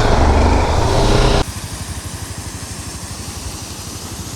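Motorcycle engine running steadily with fast, even pulses. It follows an abrupt cut, about a second and a half in, from a louder, noisier passage.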